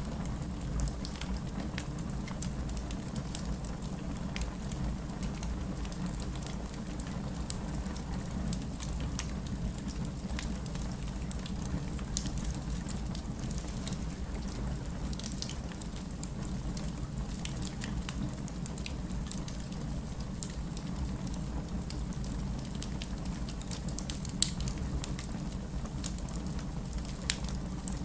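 Wood fire burning in a fireplace: a steady low rumble of flames under dense small crackles, with two sharper pops, about 12 and 24 seconds in.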